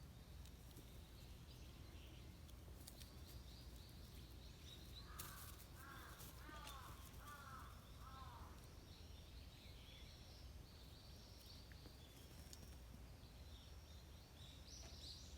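A crow cawing five times in a quick even series about five seconds in, faint and distant, while small birds chirp faintly throughout.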